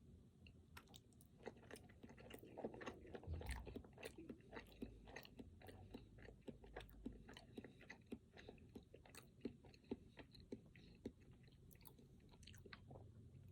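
Close-miked chewing of a chocolate-coated, cream-filled snack cake: a steady run of small, soft mouth clicks, loudest about three seconds in.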